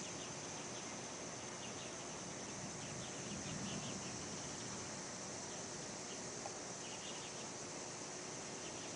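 Outdoor summer-storm ambience: a steady high insect drone with short chirps now and then, and a faint low rumble of distant thunder swelling about three and a half seconds in.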